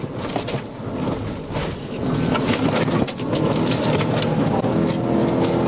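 Road, wind and engine noise inside a police cruiser during a high-speed pursuit: a steady rumble with constant crackling.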